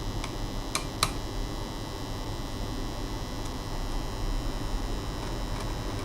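A steady low electrical hum with two sharp light clicks about a second in and a few fainter ticks.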